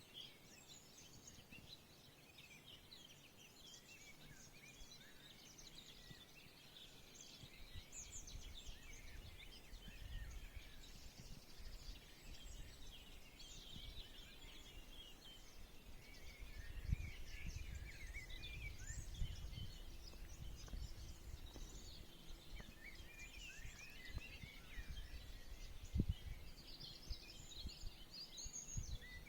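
Many small songbirds chirping and twittering at once in a forest chorus of quick, overlapping calls. Under them a low rumble comes and goes, with a few sharp knocks, the loudest near the end.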